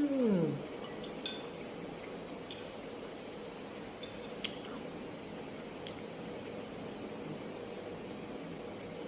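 A few light clinks of cutlery against a dish, spaced a second or more apart, over a steady high-pitched whine. A cat's meow trails off about half a second in.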